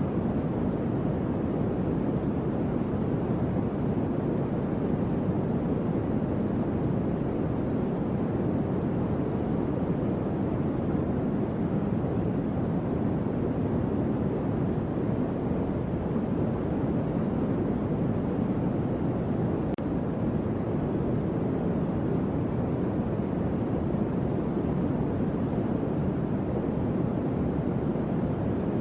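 Electric fan running steadily: an even, low whoosh of moving air with no change in speed.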